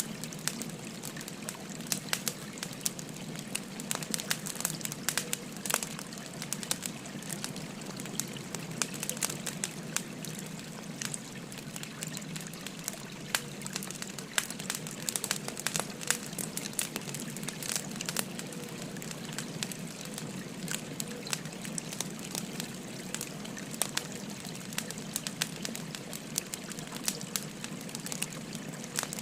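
Burning firewood crackling, with frequent sharp pops, over the steady gurgle of a gently flowing river.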